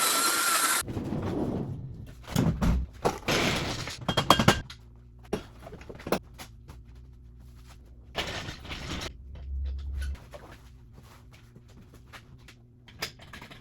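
Workshop clatter: irregular knocks and clunks, as of wood and tools being handled, thickest from about two to five seconds in and again around eight seconds, over a faint steady hum. A loud steady noise cuts off abruptly in the first second.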